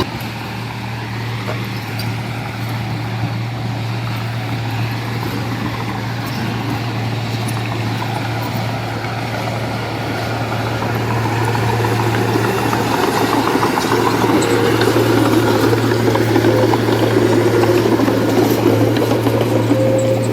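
Heavy diesel engine of construction machinery running steadily with a low hum, growing louder and rougher from about twelve seconds in as it works harder or comes closer.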